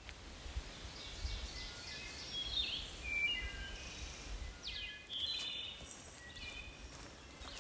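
Songbirds calling in woodland: a run of short high chirps and quick down-slurred notes, busiest in the middle, over a low steady rumble.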